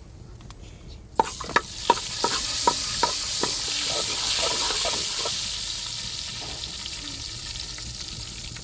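Food frying in a pan: about a second in, a loud sizzle starts suddenly, with a utensil knocking against the pan several times as it is stirred, and the sizzle then slowly dies down.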